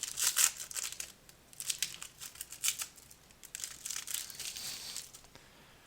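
Crinkling and tearing of a foil trading-card pack wrapper being ripped open and handled, in several short crackly bursts that fade out near the end.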